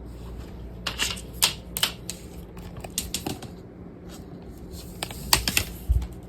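Irregular sharp clicks and taps, about a dozen, bunched around one to two seconds in and again around five seconds in, over a steady low hum.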